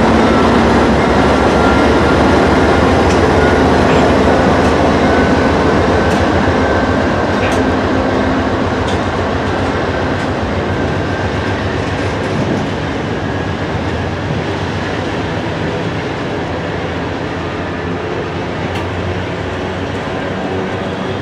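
A freight train passing close by: a diesel locomotive's engine and wheels rumble heavily at first, then the sound eases as a string of open hopper cars rolls past with steady wheel rumble and occasional sharp clicks.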